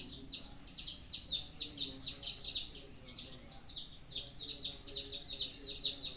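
Small birds chirping in a fast, unbroken run of short falling chirps, several a second and overlapping.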